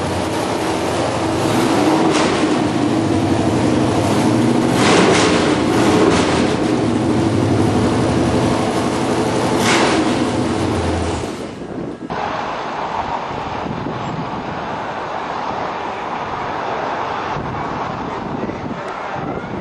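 Uncorked small-block V8 running loud through open exhaust and being revved in several short blips. About twelve seconds in, the sound cuts to quieter steady running.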